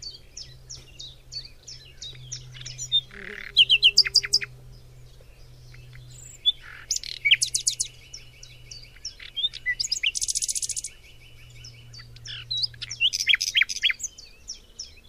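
Wild birds calling: quick series of high, sweeping chirps and trills come again and again, with a buzzy rapid trill about ten seconds in. A faint low steady hum runs underneath.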